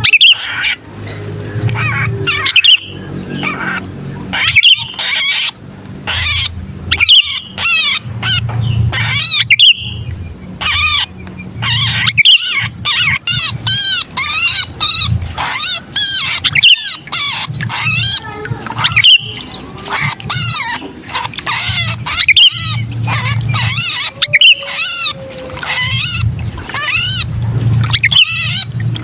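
Sooty-headed bulbuls calling in a dense, unbroken run of quick chirps and harsh squawks, several birds overlapping: the agitated distress calling of a trapped bulbul, used as a lure call. A low rumble comes and goes beneath the calls.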